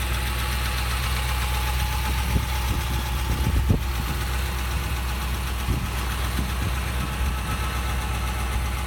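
A 2004 Cadillac CTS-V's 5.7-litre LS6 V8 idling steadily with a deep, even rumble through an aftermarket exhaust and cold air intake. A few light knocks come near the middle.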